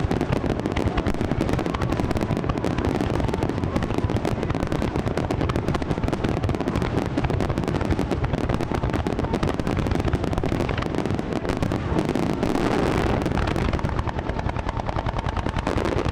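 Fireworks finale barrage: a dense, unbroken stream of rapid cracks and booms as many shells and crackling stars burst in quick succession.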